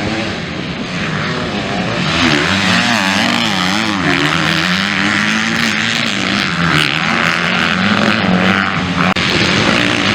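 MX2 motocross bikes racing, their engines revving up and down with the throttle, several bikes overlapping.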